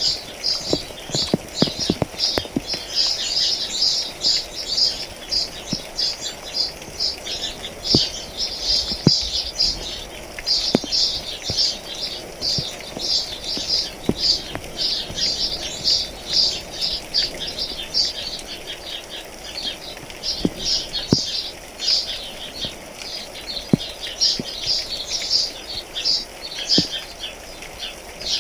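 Many small birds chirping together in a dense, unbroken chatter. Scattered rain drops land now and then as sharp single ticks.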